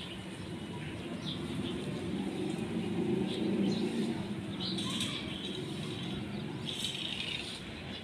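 Small birds chirping in short, scattered calls, with a longer run of chirps about five seconds in and again near the end, over a steady low rumble.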